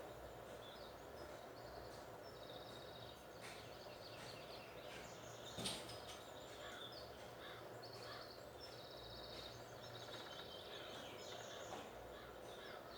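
Faint outdoor ambience with small birds calling in short repeated trills, and one sharp knock a little before the middle.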